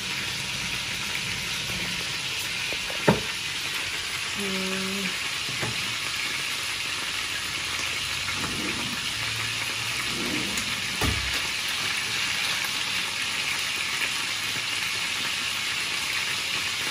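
Conger eel steaks frying in a pan, a steady sizzle throughout. A sharp knock about three seconds in is the loudest moment, with a smaller one near eleven seconds.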